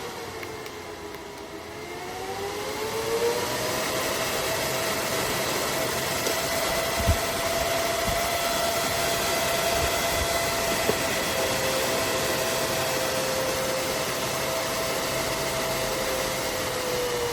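Small electric fan of a battery-powered fan-cooled work-clothes set running, a rush of air with a steady whine. The pitch dips low just after the start, then rises over about two seconds to a higher speed and holds, easing down slightly near the end. A couple of faint knocks come about seven seconds in.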